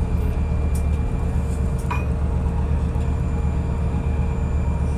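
Steady low drone of a ship's running machinery, with a steady whine above it and a short clink about two seconds in.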